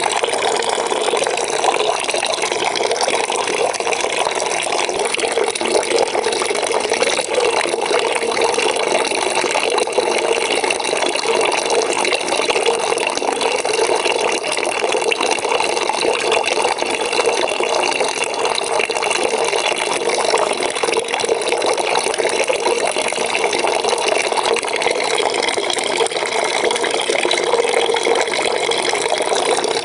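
Water pouring into a bucket as it fills, a steady, unbroken splashing.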